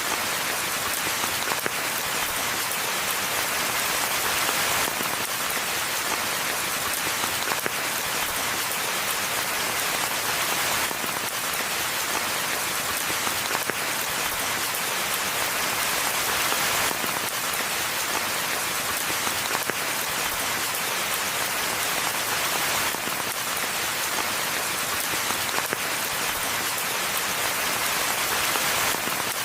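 Steady rain falling in a forest: an even, dense hiss of drops with scattered individual drop impacts ticking through it.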